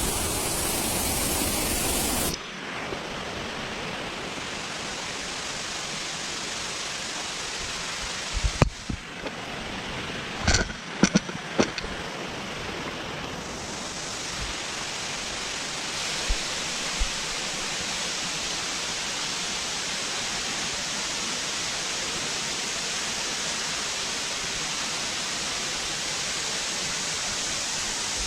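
Waterfall's falling water rushing as a steady, even noise, louder for the first two seconds. A few short bumps come about a third of the way in.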